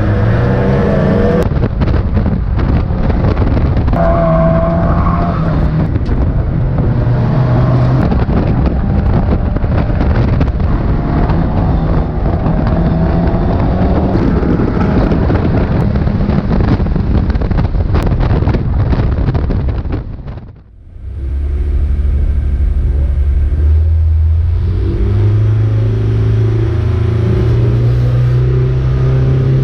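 Mazda MX-5 race car's four-cylinder engine running hard amid other race cars, with many sharp clicks and knocks through the first part. About twenty seconds in, the sound drops out briefly; after that, the engine note steps up and down in pitch.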